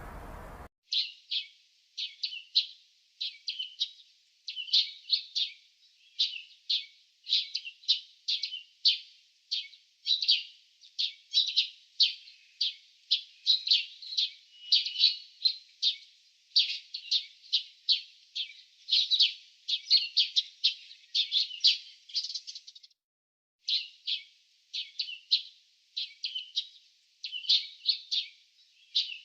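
Small birds chirping, a dense run of short high chirps several a second, starting just under a second in and pausing briefly about 23 seconds in.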